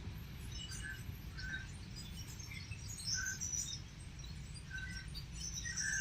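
Birds chirping in short, scattered notes, a few each second, over a steady low background rumble.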